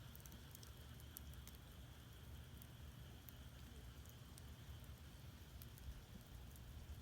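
Split firewood burning in a traditional Korean agungi firebox, giving faint, scattered crackles and pops over a steady low rumble.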